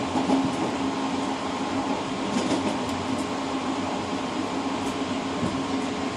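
Passenger train running, heard from inside the rear car's cab vestibule: a steady rumble and rolling noise with a held hum, and a few faint clicks.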